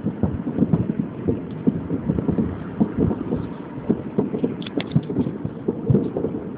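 Many distant fireworks going off at once, a dense irregular stream of low dull bangs and thuds, several a second, overlapping into a continuous rumble.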